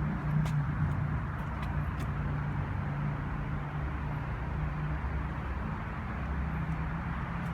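1960 Jawa 557 motorcycle engine running at a fairly steady speed, with a few faint ticks over it.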